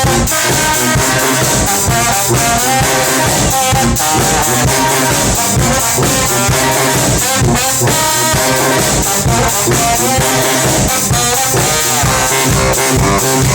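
Brass band playing live: trombone and other horns over a steady beat.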